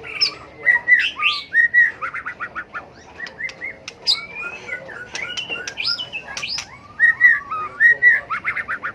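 White-rumped shama singing its competitive fighting song: a varied run of loud whistled phrases with sliding notes, broken by quick series of sharp clicking notes about two seconds in and again near the end.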